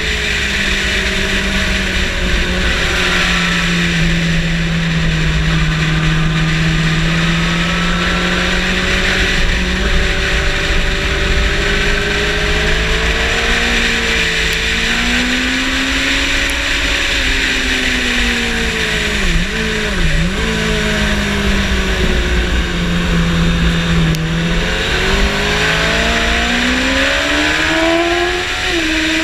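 Yamaha motorcycle engine being ridden hard, its pitch rising and falling with speed. There are a couple of sharp dips about two-thirds of the way through and a climbing rise near the end, over a steady rush of wind noise.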